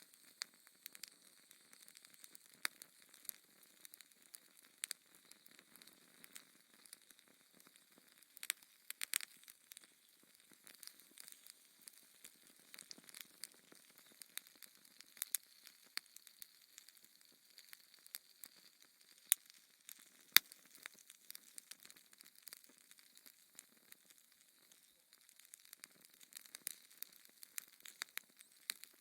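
Wood fire in a fireplace crackling: irregular sharp pops and snaps over a faint hiss, with the two loudest pops about nineteen and twenty seconds in.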